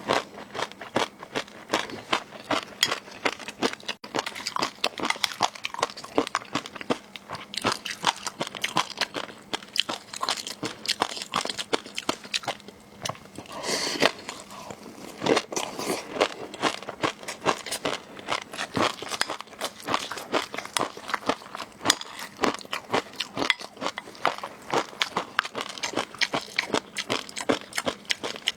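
Close-miked eating of seafood: biting and chewing with dense, irregular crunching clicks.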